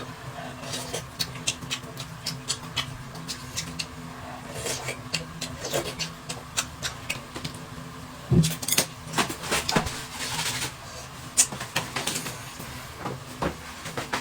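Irregular light clicks and taps, with one louder knock about eight seconds in, over a steady low hum.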